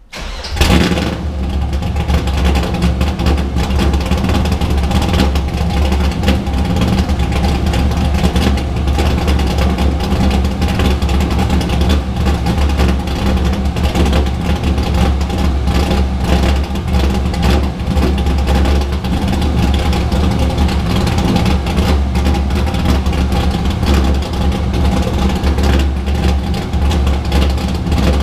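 LS-series V8 swapped into a Nissan 350Z, firing up about half a second in and settling into a loud, steady idle. This is the engine's first start after the rebuild, with fuel, oil pressure and coolant freshly primed.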